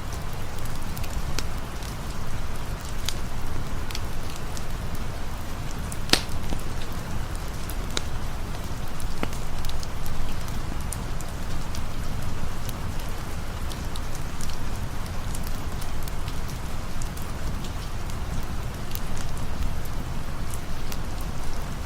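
Steady rain with scattered sharp crackles and pops from a campfire; one louder pop about six seconds in.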